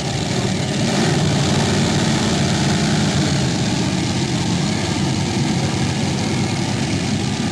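Tractor engine running steadily, a little louder from about a second in.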